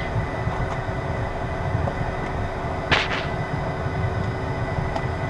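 Cockpit noise of a Beechcraft Premier 1 business jet taxiing on its twin turbofan engines: a steady low rumble with a couple of constant tones. A short sharp swish cuts through about three seconds in.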